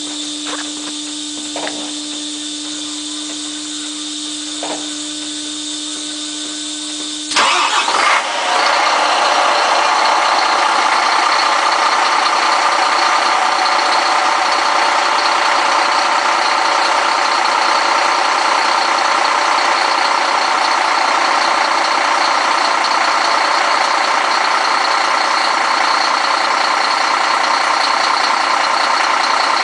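A steady hum with a few light clicks, then about seven seconds in a Scania DC12 12-litre straight-six diesel truck engine cranks and starts. It catches within about a second and settles into a steady idle.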